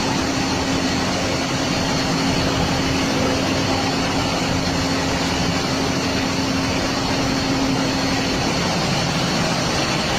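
A boat's engine running with a steady hum under loud, even noise of wind and rough sea.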